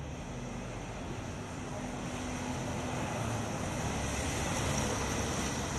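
Steady city street traffic noise that swells gradually as a vehicle draws near, loudest about five seconds in.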